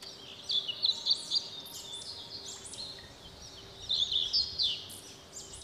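Small birds chirping and twittering: quick, high, repeated calls in clusters, loudest about half a second in and again about four seconds in.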